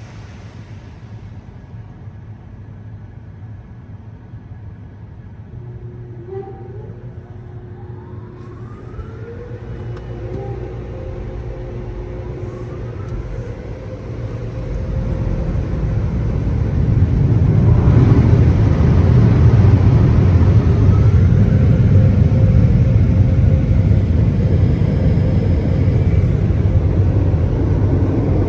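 Car wash dryer blowers spinning up, with several rising whines one after another, then running at full speed as a loud, steady roar from about two-thirds of the way in.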